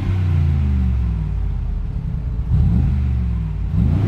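2020 Mercedes-AMG G63's twin-turbo V8 being revved while stationary, with the sports exhaust switched on. Engine speed settles back at first, then climbs and drops in two quick revs in the second half.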